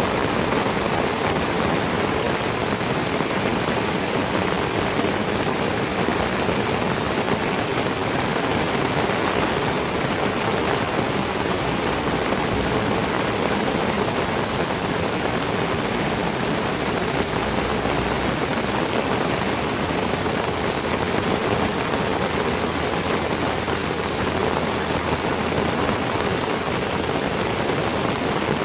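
Heavy tropical rain falling steadily, a dense, even hiss with no letup.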